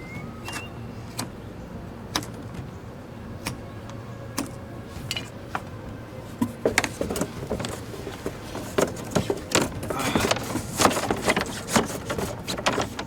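Irregular knocks, clicks and scrapes as a birchbark canoe is pushed out into the water. They are sparse at first and grow busier and louder from about halfway.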